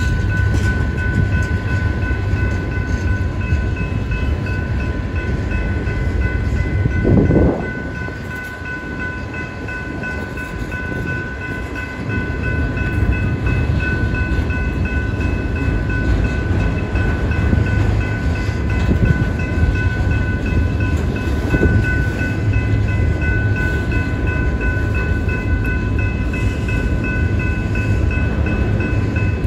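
Freight train of autorack and tank cars rolling through a grade crossing: a continuous low rumble of wheels on rail, with the crossing's warning bell ringing steadily over it. About seven seconds in the rumble swells briefly, then eases for a few seconds before picking up again.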